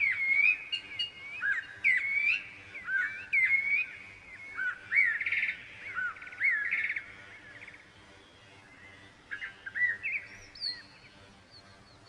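Birds chirping: a quick run of short, upward-hooked chirps, with two buzzy rattling notes in the middle. After a brief pause a few more chirps follow.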